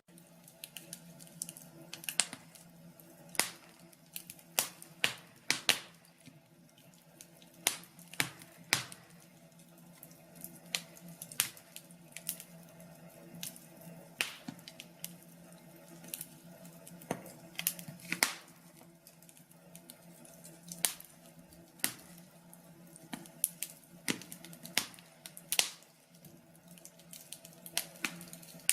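Wood fire crackling: irregular sharp pops and snaps of burning logs, some much louder than others, over a faint steady low hum.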